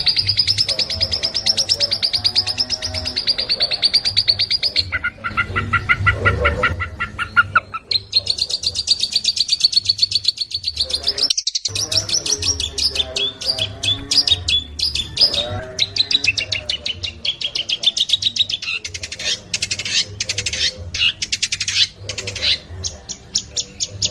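Long-tailed shrike (cendet) singing a fast, continuous run of rapid high chattering and trilling notes. The song breaks off for a split second near the middle.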